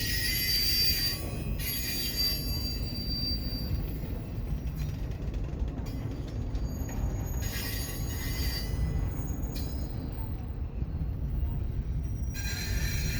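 Railcars of a CPKC train rolling past with a steady low rumble, and wheel squeal breaking in and out in high-pitched stretches several times.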